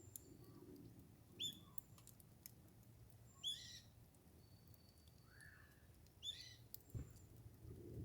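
Small songbird calling from trees: three short, high chirps that sweep downward, a couple of seconds apart, over a faint background with a few soft clicks.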